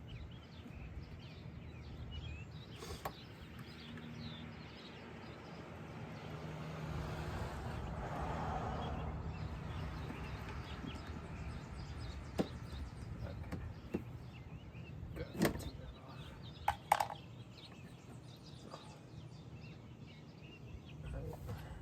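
Low steady background noise, with a soft hiss that swells and fades over a few seconds around the middle, like a passing vehicle. Sharp metallic clicks and clinks of hand tools on bolts and car parts come now and then, most of them in the second half.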